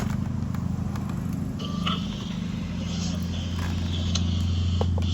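A steady low machine hum throughout, with a few sharp clicks of pliers working at a vacuum cleaner's power cord.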